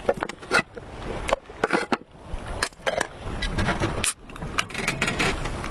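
A series of irregular knocks and clicks, like objects being handled and set down.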